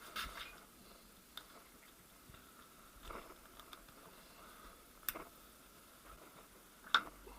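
Sharp clicks and knocks of steel manual-gearbox parts (gears, synchronisers, bearings) being handled and set down during disassembly. There are about five separate clicks, the loudest near the end.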